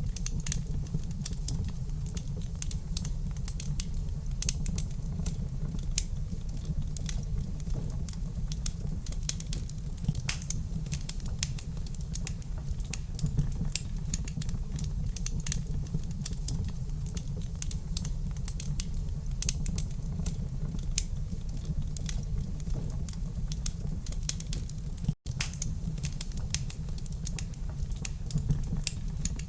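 Wood fire crackling in a fireplace: dense, irregular pops and snaps over a steady low rumble. The sound cuts out for an instant about 25 seconds in.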